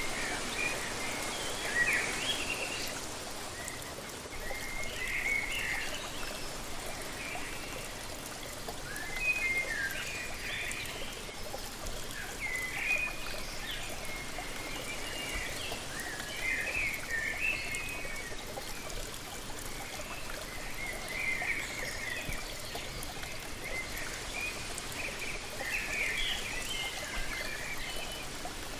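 Waterfall with a steady rush of falling water, and a songbird singing short chirpy phrases every three or four seconds over it.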